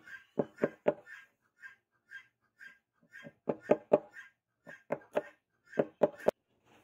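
Sharp, dull knocks in quick groups of two or three, about a dozen in all, with pauses between the groups and no ringing after them.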